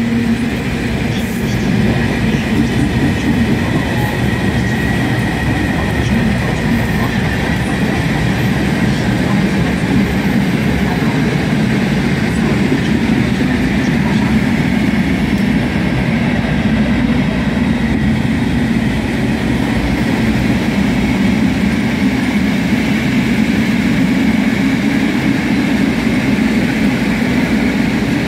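A long freight train of covered hopper wagons rolling past, its wheels running steadily on the rails in a continuous loud noise.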